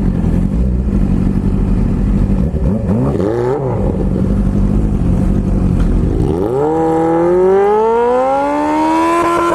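Sport motorcycle engine idling, revved briefly about three seconds in, then pulling away from about six seconds in with a long rising pitch that levels off near the end.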